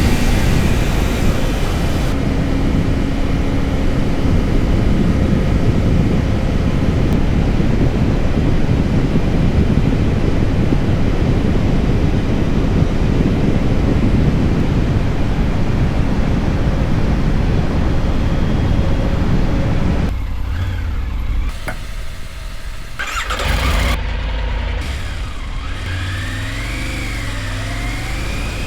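Motorcycle riding at speed, with wind rushing over the microphone and the engine running. About 20 seconds in it gets quieter as the bike slows, and near the end the engine's pitch rises and falls.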